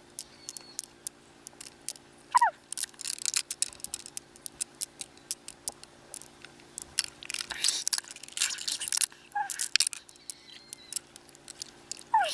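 Many sharp, irregular clicks and short scraping noises, as of hard objects being handled, over a faint steady hum. Two short falling squeaks come in, one about two seconds in and one near the end.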